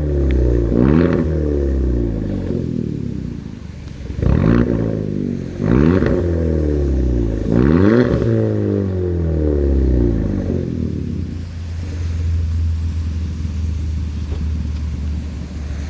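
2019 Hyundai Elantra Sport's 1.6-litre turbocharged four-cylinder, with resonator and cat-back muffler deleted, revved four times in quick blips, the pitch rising and falling each time, then settling to a steady idle.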